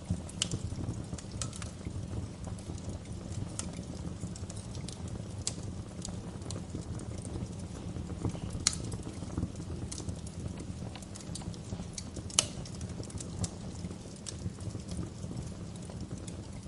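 Wood fire burning in a fireplace: a steady low rumble of flames with scattered sharp crackles and snaps, two louder pops about halfway and about three-quarters of the way through.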